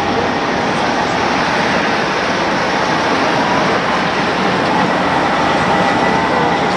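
Jet airliner engines running, a steady loud rush with a thin steady whine over it.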